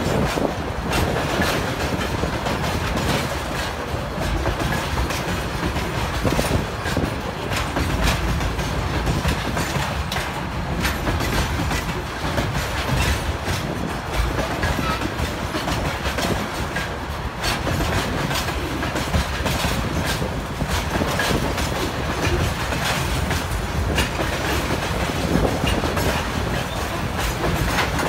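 Freight train of rail tank cars rolling past close by: a steady rumble of wheels on rails with frequent irregular clicks from the wheels.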